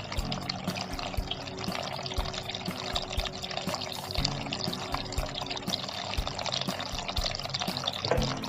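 Water trickling and splashing with small drips, over background music with held notes.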